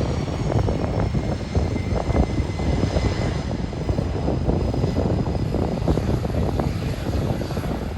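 Aircraft engine running, a dense rough rumble with a faint high whine that slowly falls in pitch.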